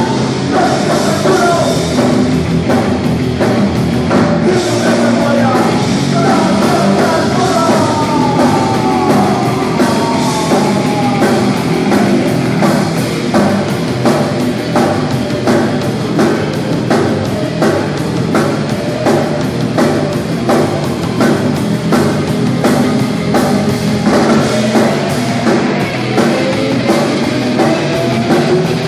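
Punk rock band playing live at full volume: electric guitars, bass and drum kit with a steady driving beat, with sliding guitar or vocal lines now and then.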